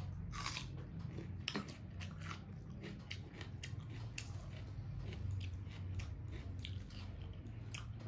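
A person eating rice and mung dal by hand: chewing, with wet mouth clicks and smacks at irregular intervals, and fingers mixing rice on a steel plate.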